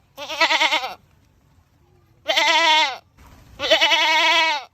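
Goat screaming: three loud, wavering bleats, a short one at the start and two longer ones a second or so apart, the last two sliding down in pitch at the end.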